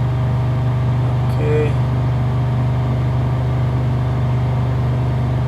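BMW 540i V8 engine, fully warmed up, held steady at about 3000 RPM with no load, a constant drone.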